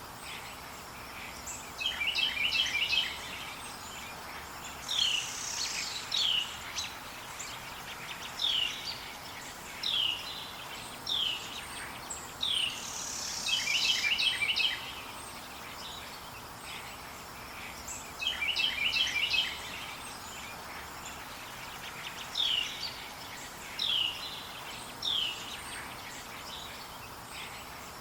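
Wild songbirds singing. Short, rapid trills of repeated notes come every few seconds, and single down-slurred whistles are spaced about a second or two apart, over a steady background hiss.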